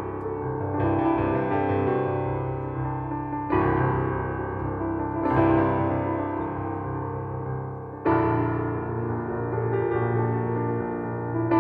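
Slow background piano music: sustained chords, with a new chord struck every two to three seconds.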